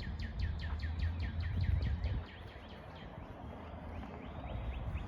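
A songbird singing a long, quick series of downslurred notes, about five or six a second, that fades after about two seconds, over a low rumble of wind or handling on the microphone.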